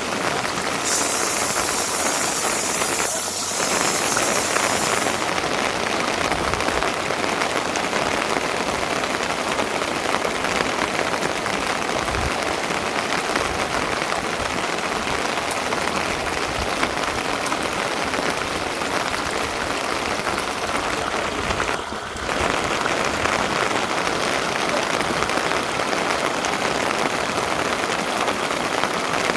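Steady rain falling, an even hiss throughout, with a brighter, sharper hiss for a few seconds near the start.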